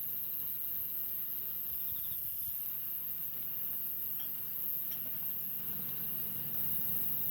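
Wood campfire burning steadily with a low rumble and a few faint crackles, under pig's trotters grilling over it with only a weak sizzle. Insects chirp faintly in the background.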